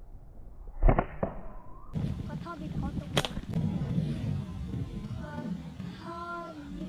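Sharp cracks of slingshot shots: a loud one about a second in with a smaller click right after, and another about three seconds in.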